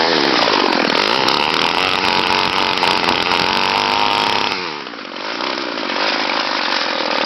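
Small two-stroke weed eater (string trimmer) engine on a cold start, running and being revved up and down. The revs drop about five seconds in, then pick up again.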